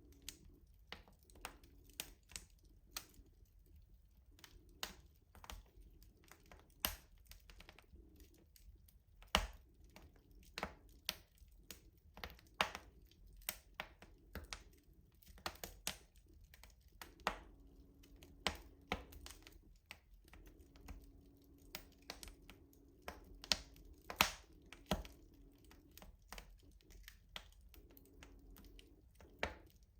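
Wood fire crackling in a rustic stove: a steady run of irregular sharp pops and snaps, a few much louder than the rest, over a faint low rumble of the burning fire.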